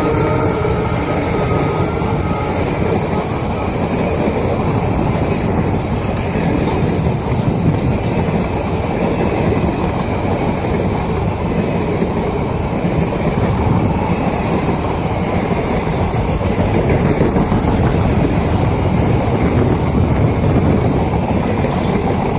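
Indian Railways passenger train's coaches running past at speed, their wheels rolling steadily and loudly on the track.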